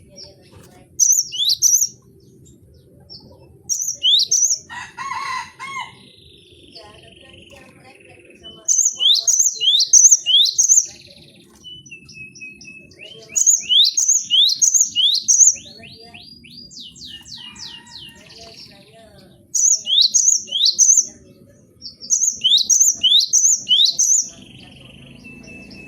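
Cinereous tit (gelatik batu) singing in about six bursts, each a quick run of two to five sharp, high notes that sweep downward. Quieter chirps and a short buzzy trill come between the bursts.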